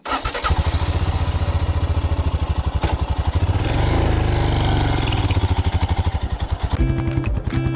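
Royal Enfield Himalayan's single-cylinder engine running while riding, with a rapid, even pulsing beat. Music comes in near the end.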